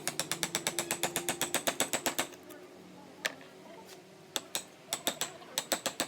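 Wood-carving tool working wood: rapid sharp taps, about eight a second, stopping for about two seconds in the middle with only a couple of single taps, then resuming.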